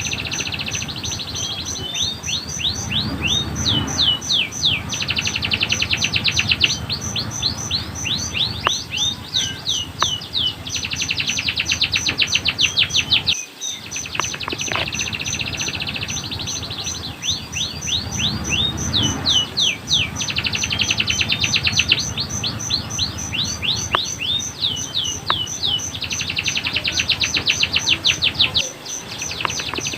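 Domestic canary singing: long rolling trills alternating with fast runs of downward-sweeping whistles, the phrases repeating about every 13 to 14 seconds, over a steady high ticking at about four to five a second.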